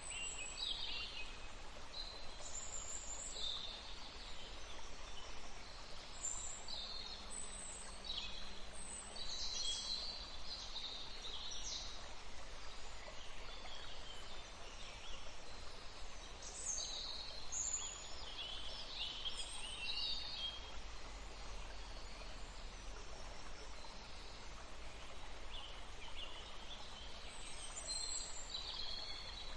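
Several small birds singing, with short high-pitched chirps and trills overlapping in bouts and brief lulls between them, over faint steady background noise.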